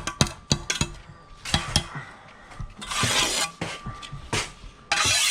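Steel bricklaying trowel working mortar on concrete blocks: a run of sharp taps and clinks, then several scraping strokes of half a second or so.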